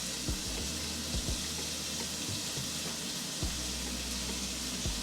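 Food sizzling in a frying pan: a steady hiss, with a few light knocks scattered through it.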